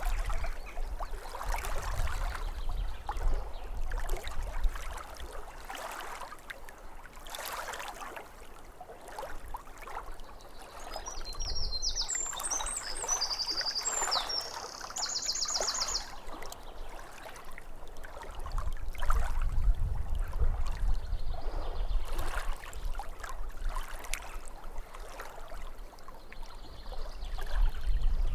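Small waves lapping at a lake's edge in irregular splashes. About halfway through, a songbird sings one high phrase that ends in a fast, even trill. A low rumble comes and goes underneath.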